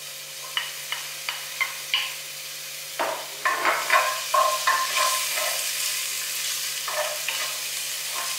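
Onion and garlic frying in oil in a frying pan, with a few sharp taps of a spatula against the bowl and pan rim. About three seconds in, the sizzling swells as shrimp and squid go into the pan, and a wooden spatula clatters as it stirs them through.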